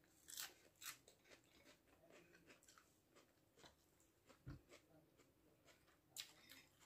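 Faint chewing and crisp crunching of raw green vegetable shoots being bitten and eaten, in a few soft scattered crackles.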